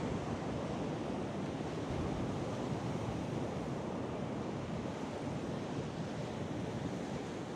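Storm wind and ocean surf, a steady rushing noise, with wind buffeting the microphone.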